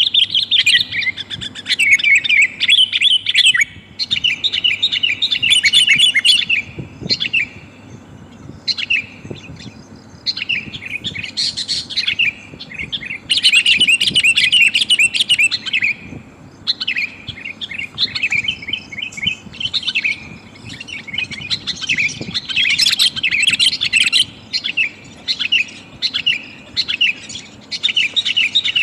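Sooty-headed bulbul (kutilang) calling: a female's call used as a lure to draw males. It comes in bouts of quick, bright chirping notes, each bout a second or a few seconds long, with short pauses between.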